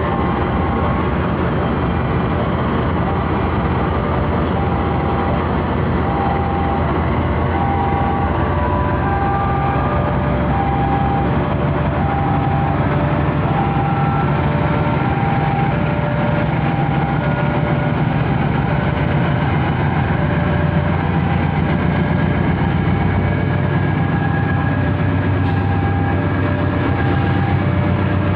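CC206 diesel-electric locomotive (a GE C20EMP) running under power as it hauls a container and steel freight train away, its engine note growing stronger past the midpoint. A steady, evenly spaced two-note tone repeats throughout.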